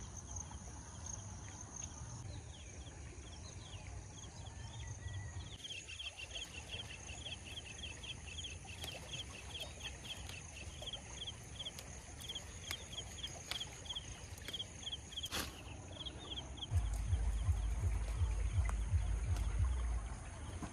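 Rural outdoor ambience: a bird calls a long, rapid run of short repeated chirps over a steady high-pitched insect drone. A low rumble comes in near the end.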